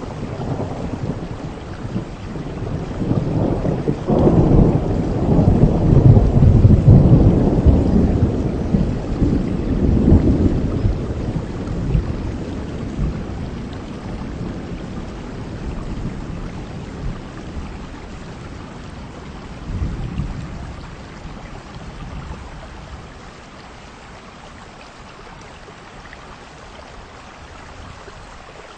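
A long low rumble of thunder builds a few seconds in, peaks, and dies away over about twenty seconds, over steady heavy rain.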